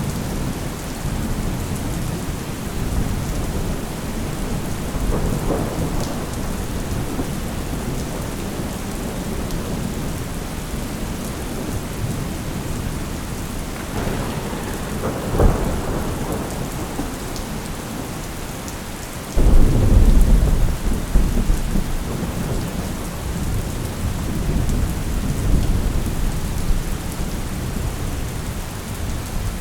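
Thunderstorm: steady rain throughout with rolling thunder. A sharp thunder crack comes about halfway through, then a loud, deep thunderclap breaks in suddenly about two-thirds of the way through and rumbles away over several seconds.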